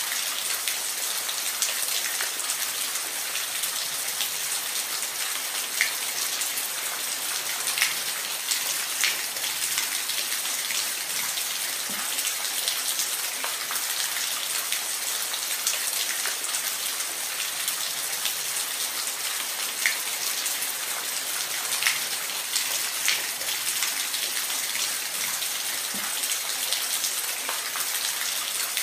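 Waterfall: a steady hiss of falling water, with scattered brief splashes and drips standing out now and then.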